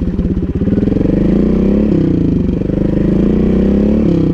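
Montesa Cota 4RT trials bike's four-stroke single-cylinder engine pulling away at low speed, its pitch climbing and then dropping back twice.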